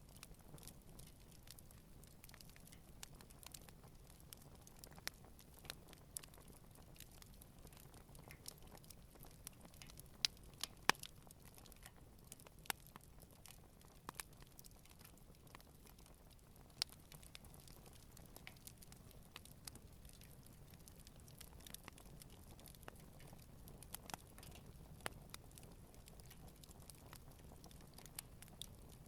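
Wood campfire burning gently: sparse, irregular crackles and pops over a faint low steady hiss, with a couple of sharper pops about ten seconds in.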